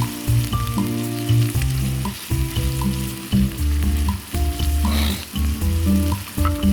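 Meat frying and sizzling in a pan, heard under louder background music made of steady notes that change pitch every half second or so.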